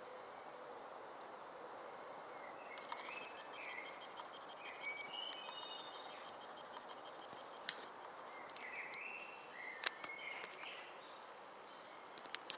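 Faint songbird chirps and a short trill in two spells, over a steady outdoor background hiss, with a few sharp clicks near eight and ten seconds in and near the end.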